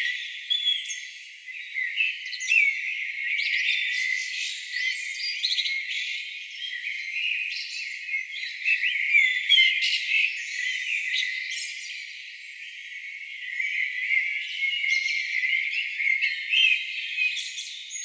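A chorus of several songbirds singing at once: many overlapping chirps, trills and short whistled notes, with nothing below a high band, as if low sounds had been filtered out.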